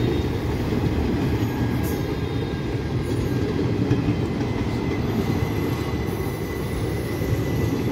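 Passenger coaches of an Indian Railways express train rolling past a platform as the train pulls out of the station: a steady, loud low rumble of wheels on the rails.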